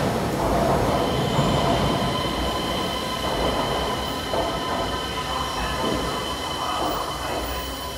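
Keisei AE-series Skyliner electric train running slowly into the platform, slowing as it arrives: a steady rumble of wheels on rail with a steady high-pitched tone from about a second in, the whole sound slowly getting quieter.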